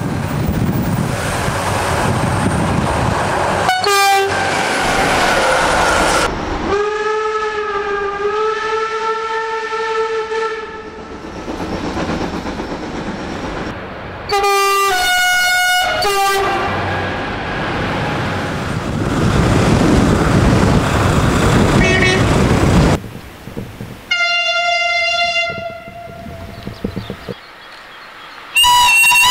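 A series of Makrofon air horns on German diesel locomotives and trains. They give one short blast, then a long held blast, then a quick run of short blasts, then further single blasts at different pitches. Between the blasts comes the rumble and wheel clatter of passing trains.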